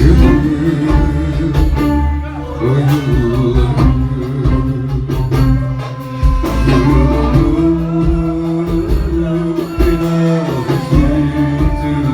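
Live band playing the instrumental break of a Turkish pop ballad, with held melody notes over a steady beat.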